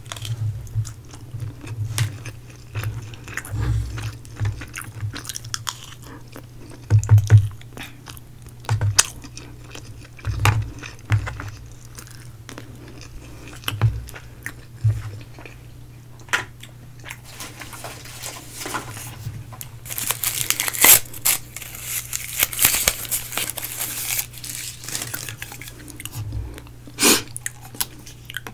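Close-miked eating sounds: chewing, biting and crunching of spicy fried chicken and spooned sides, in short irregular bursts. About two-thirds through there is a longer stretch of crisp crackling.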